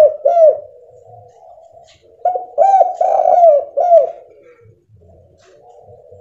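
Spotted dove cooing: the tail of one phrase right at the start, then a phrase of about five arched coos about two seconds in.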